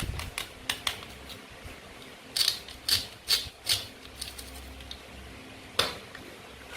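Plastic toy food pieces clicking and tapping as they are handled and cut with a toy knife. A few light clicks, then four sharper clicks in quick succession about halfway through, and one more near the end.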